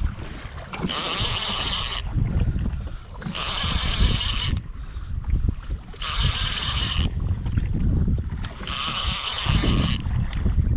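Fishing reel whirring in four bursts of about a second each, roughly every two and a half seconds, over steady wind and boat noise.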